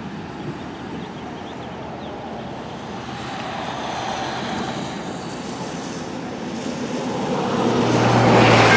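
Approaching diesel locomotive growing steadily louder, its low engine drone building over the last second or so, with wind noise on the microphone.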